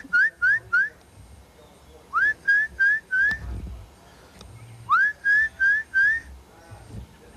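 Pet parrot whistling three quick runs of four or five short up-swept notes, each run opening with a longer rising whistle.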